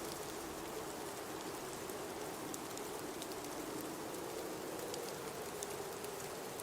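Blizzard wind blowing steadily: a hissing rush with a low howl that slowly wavers in pitch, and faint scattered ticks.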